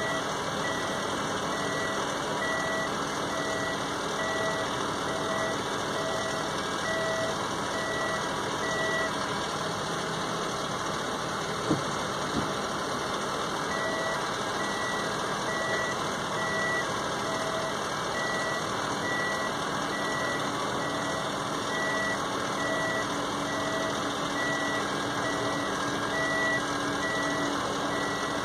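Electronic warning beeper sounding a steady series of short beeps, about three every two seconds, with a pause of a few seconds midway, over a continuous rushing noise.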